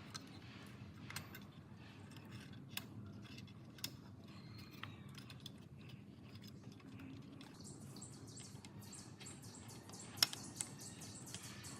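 Faint scattered clicks and knocks over a low steady hum, then a quick run of light ticks from about eight seconds in, with the sharpest click shortly after ten seconds.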